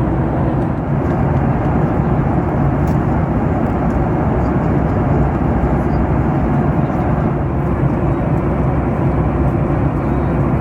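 Steady roar inside the passenger cabin of a Boeing 737-9 MAX airliner in flight: airflow and engine noise, even and unbroken, with a low hum beneath.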